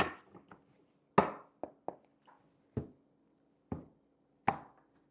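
A tarot card deck knocked and tapped against a table: about seven short, sharp knocks at irregular intervals.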